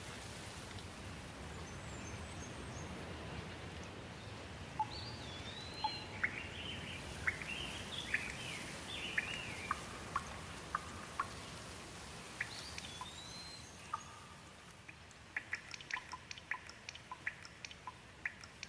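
Rain falling steadily as a soft hiss, with small birds chirping over it through the middle. The rain thins near the end, under a quick run of short, sharp ticks.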